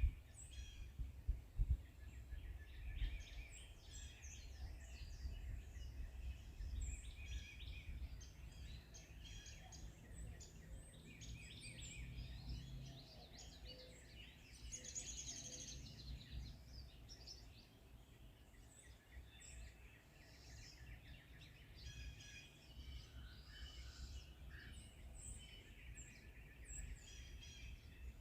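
Several forest birds singing and chirping in a dense overlapping chorus of short high notes, with a trill about halfway through, over a steady low background rumble.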